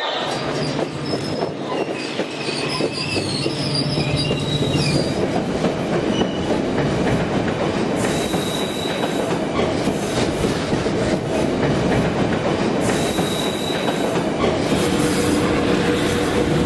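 A train running along the track: a steady rumble with short, high wheel squeals now and then.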